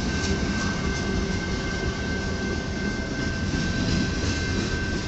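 Canadian National train rolling past at close range: a steady rumble and clatter of wheels on rail, with a thin steady high squeal running through it.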